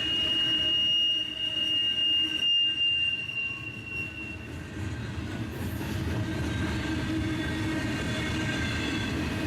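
Freight train rolling past with a high, steady steel wheel squeal that dies away about four and a half seconds in. The low rumble of the passing cars continues underneath.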